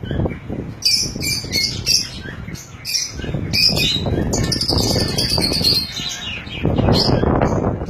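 A group of lovebirds chirping and squawking in rapid, overlapping short high calls. From about three seconds in, a loud low noise runs underneath, growing stronger near the end.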